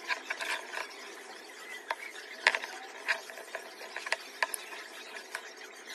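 Small tools prying a cracked phone screen away from its frame: scraping, with many small irregular clicks and snaps, the loudest about two and a half seconds in.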